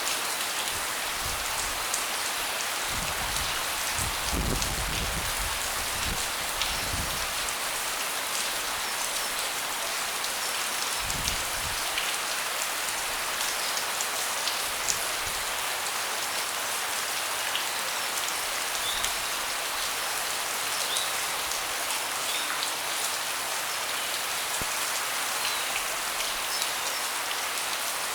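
Steady rain falling, a constant hiss with scattered individual drops ticking close by. A few soft low rumbles come in the first several seconds and again around eleven seconds in.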